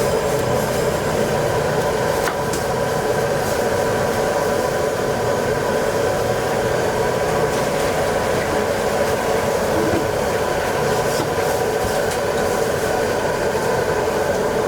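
Steady roar of commercial kitchen equipment running, with a faint whine of a few steady tones over it.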